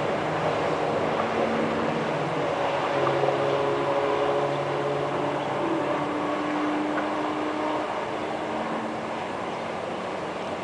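Several cars driving fast on a highway: engine notes at different pitches held steady over continuous tyre and road noise, easing off slightly toward the end.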